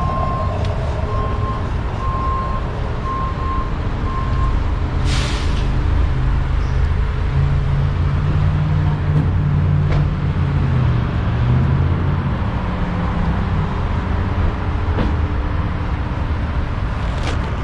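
Low, steady rumble of car engines idling, with an electronic beep repeating about twice a second for the first few seconds and a short burst of hiss about five seconds in.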